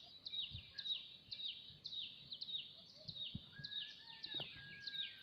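A bird calling over and over in short, high, falling chirps, about two a second. A thin steady tone joins in for the last second and a half.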